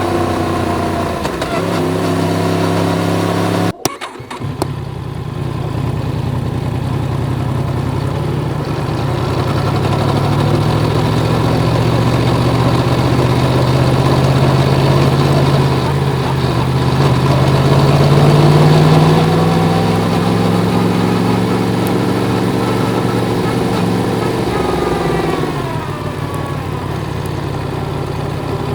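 Yamaha MT-10's crossplane inline-four engine running under way. The revs drop about a second in, the sound cuts out sharply for a moment near four seconds, then the pitch climbs slowly for about fifteen seconds before easing off and dropping again near the end.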